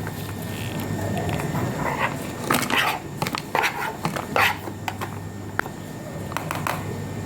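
Several short calls from a pet animal, spaced out over a few seconds, over a steady low hum.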